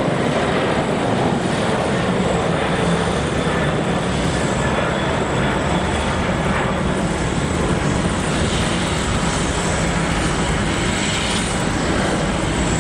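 Boeing 747-400's four turbofan jet engines running loud and steady, a continuous roar with a faint high whine over it.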